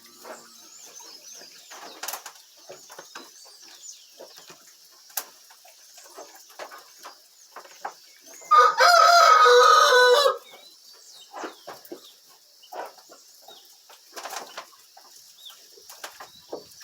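A rooster crows once, loud, for nearly two seconds about halfway through. Around it are scattered small knocks and clicks and faint high chirping.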